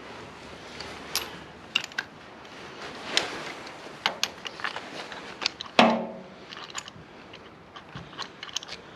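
Hand tools and small metal parts being handled: scattered light metallic clicks and clinks, with one louder metal clank about six seconds in that rings briefly.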